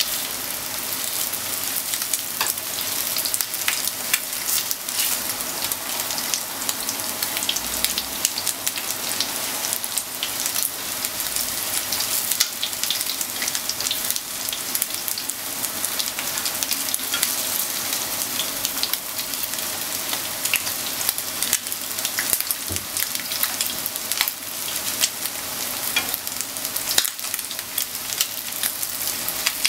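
Flour-coated chicken pieces shallow-frying in oil in a nonstick frying pan: a steady sizzle full of fine crackling spatter, as the pieces are turned with wooden chopsticks.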